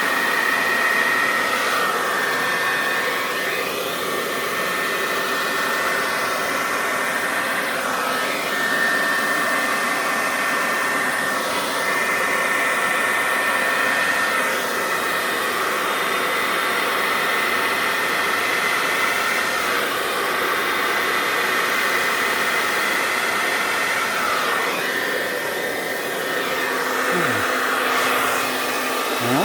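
Remington hair dryer running continuously, a steady rush of air with a thin high whine, its sound shifting back and forth every few seconds.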